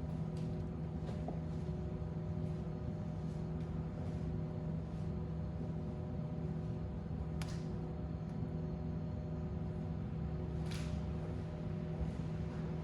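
Fireplace fire crackling, with faint scattered ticks and two sharper pops, the first about seven seconds in and the second near the end, over a steady low hum.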